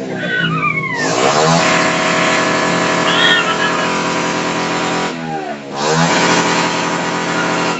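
Heavily loaded motorcycles' engines running and revving, their pitch sweeping near the start and again about five seconds in.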